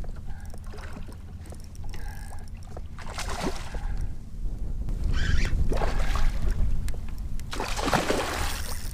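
Wind rumbling on the microphone, with water splashing in three bursts as a hooked redfish thrashes beside the kayak.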